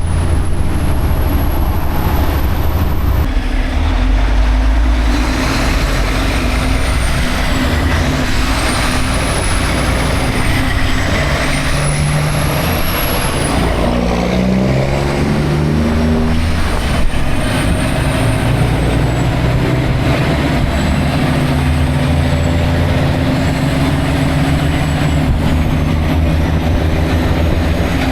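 Semi truck's diesel engine running steadily under way, its engine note shifting up and down for a few seconds around the middle.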